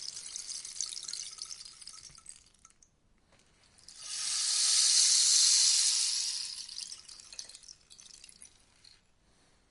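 Rainstick tipped twice: a pattering trickle of fine clicks that thins out and stops about three seconds in, then after a short pause a louder, denser cascade that swells and slowly fades away over about five seconds, like falling rain.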